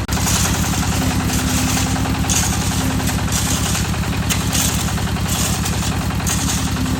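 Concrete mixer's small engine running steadily with an even low pulse, with a gritty hiss and rattle that comes and goes about once a second.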